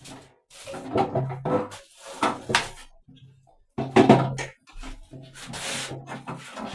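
Indistinct voices talking in short bursts, broken by brief gaps.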